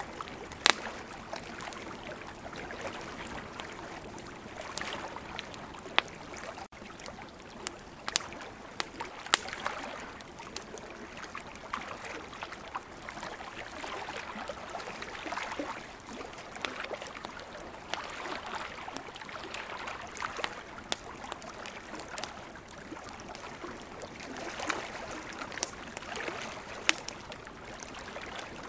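Wood campfire crackling with frequent sharp pops and snaps, over a steady rushing hiss of nearby surf.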